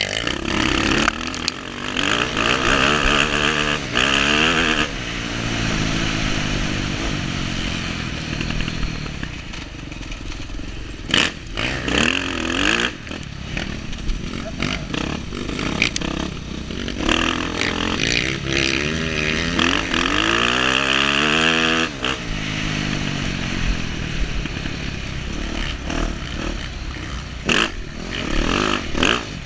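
Dirt bike engine revving up and down over and over as it races over rough off-road terrain, with sharp clattering knocks several times.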